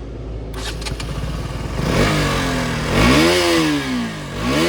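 KTM RC 200's single-cylinder engine idling, then revved twice in quick throttle blips, its pitch rising and falling back, starting about two seconds in. A few sharp clicks come shortly after the start.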